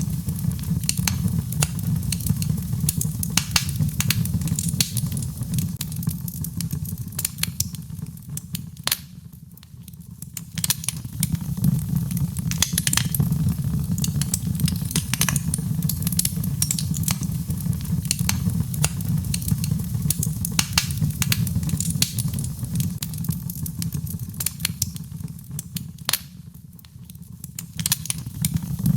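Birchwood fire crackling in a fireplace: dense, irregular sharp pops and snaps over a low steady rumble. It eases off briefly twice.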